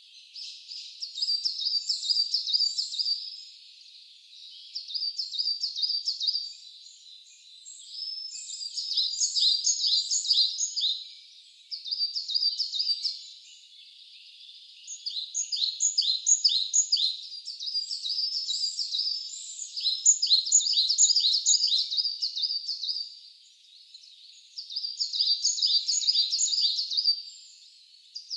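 A songbird singing a high, rapid trilled song in repeated phrases of two to four seconds, about seven of them, each separated by a pause of about a second.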